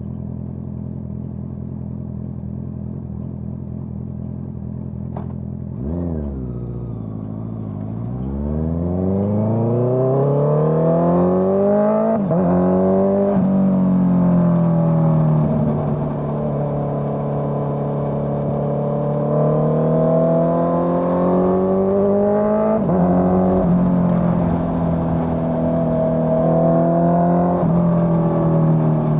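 Honda CBR650R inline-four engine through a Dominator GP full-system exhaust, idling steadily, then pulling away about six seconds in and accelerating through the gears, its pitch climbing with brief drops at each upshift, before riding on with the revs rising and falling.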